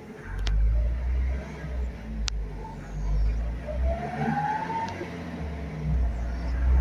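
Chevrolet Celta's engine revving in gear with the car on jack stands, driving the raised wheels freely up to about 60 km/h for a wheel-bearing noise test. A low, uneven rumble swells and dips throughout, with a rising whine about four seconds in.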